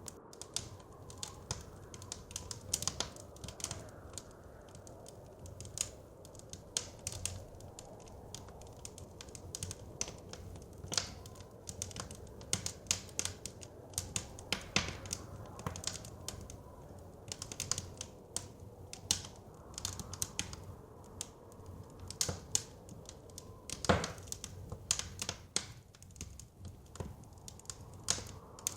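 Wood fire crackling in a fireplace with irregular sharp pops, one louder pop about three-quarters of the way through. Under it runs a steady low rush of blizzard wind.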